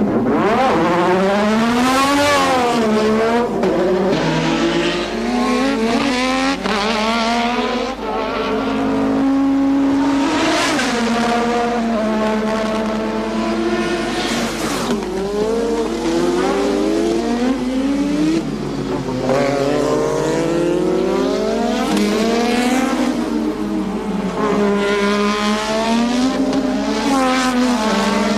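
1986 turbocharged Formula One car engines at racing speed, revving up and falling away again and again as cars accelerate, change gear and pass.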